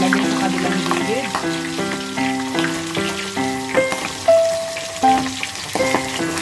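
Pork ribs deep-frying in a pot of hot oil: a steady sizzle with small crackles. Instrumental background music with a simple melody plays over it.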